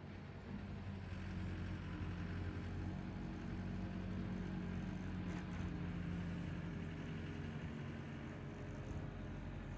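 Tractor engine running steadily under load while it works a power rake over rough ground.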